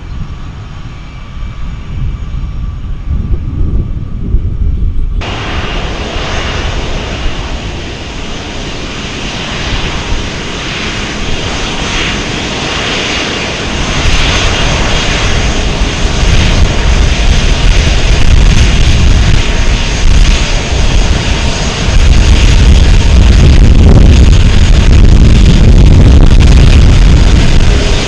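Airplane engines running loud with a deep, noisy rumble that builds through the clip and is loudest near the end as the aircraft powers up or passes close.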